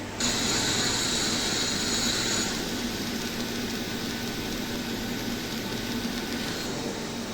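Orbital pipe welding machine at work: a steady hiss that starts suddenly, louder for the first two or three seconds, then settles to a lower level, over a faint machine hum.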